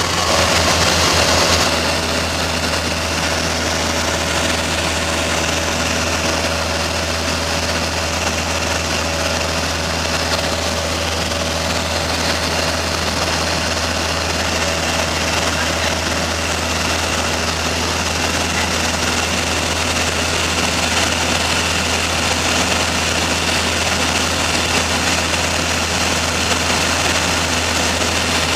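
Small plane's engine running at a steady pitch, one constant drone.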